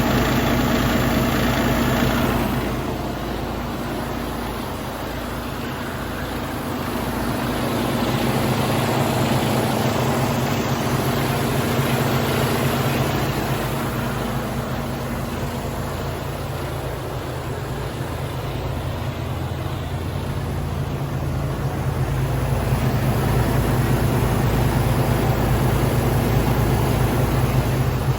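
Mercedes-Benz Arocs 2648 tipper truck's inline-six diesel engine idling steadily, its level dipping gently twice and coming back.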